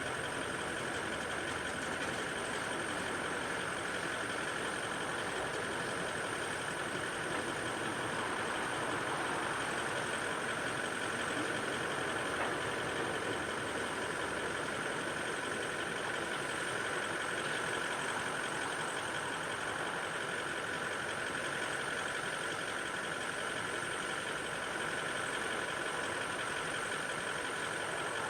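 A vehicle engine idling steadily, with a constant hum and no change in level.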